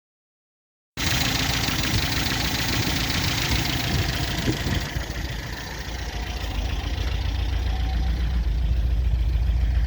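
MGB's 1.8-litre B-series four-cylinder engine running with the choke tied fully on, running super rich. The sound cuts in abruptly about a second in, and the exhaust pulses grow stronger and steadier toward the end.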